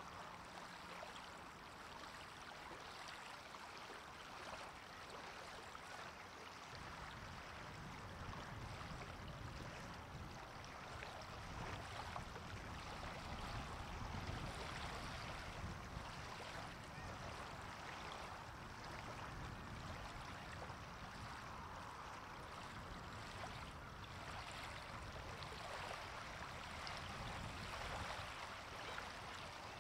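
Faint, steady ambience of running water. A low rumble joins about seven seconds in.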